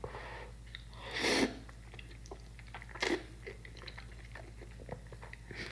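Mouth sounds of someone eating Buldak instant noodles: soft wet chewing clicks throughout, with two louder noisy bursts, one about a second in and one about three seconds in.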